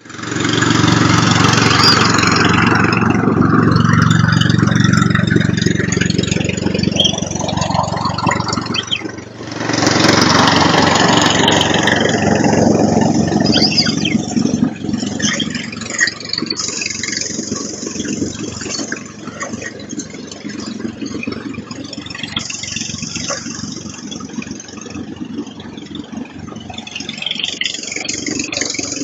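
An engine running steadily, with a brief drop in level about nine seconds in.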